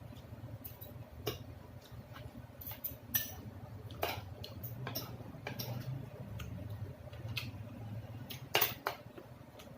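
Cutlery clinking and tapping against a bowl in irregular sharp clicks as the last of the broth is scooped up, with the loudest pair of clinks near the end.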